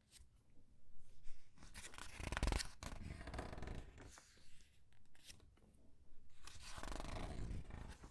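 Paper pages of a comic book being turned and squeezed, rustling and crinkling in several bursts, with a sharp crackle about two and a half seconds in.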